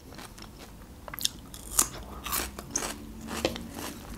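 Chewing and biting crunchy fresh cucumber, with a series of crisp crunches and wet mouth sounds.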